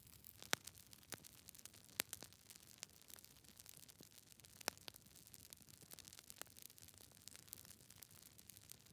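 Wood fire crackling in a fireplace: sharp, irregular pops of burning logs over a faint hiss, the loudest about half a second in, at two seconds and near five seconds.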